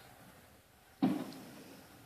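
A single firework bang about a second in, dying away with a short rumbling tail.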